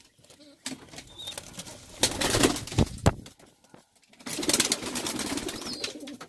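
Pigeons in a loft: low cooing, with bursts of rustling and wing flaps about two seconds in and again from about four seconds in.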